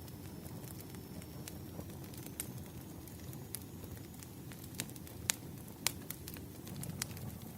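Fireplace crackling: a low steady rush of burning wood with scattered sharp pops and snaps, a few louder ones about five and six seconds in.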